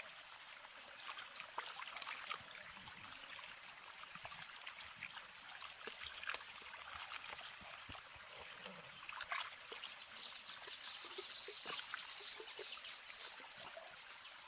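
Water trickling steadily, like a small stream, with scattered small clicks and splashes.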